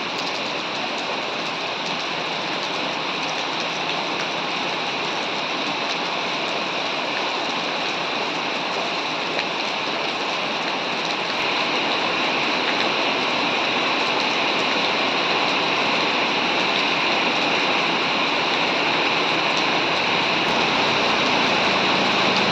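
Heavy rain pouring down in a dense, steady hiss of falling and running water, growing a little louder about halfway through.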